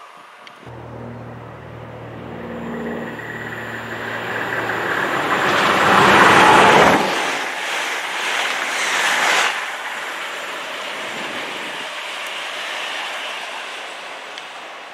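An express passenger train passing through a station at speed: a low steady hum and a rising rush build to a loud peak about six to seven seconds in, then fall off sharply, with a second smaller swell just after, as the train runs on into the distance.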